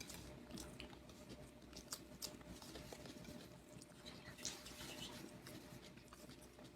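Faint eating sounds: chewing, with many soft, scattered clicks and smacks.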